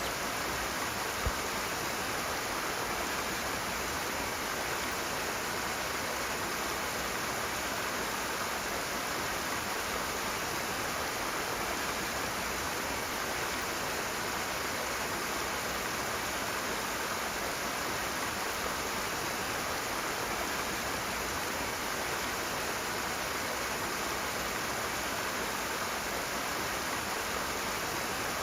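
Rushing water: a steady, even rush from a fast-flowing stream, with one brief tick about a second in.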